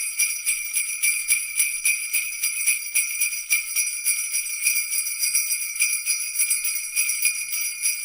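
Sleigh bells jingling, shaken in an even rhythm of about four to five shakes a second.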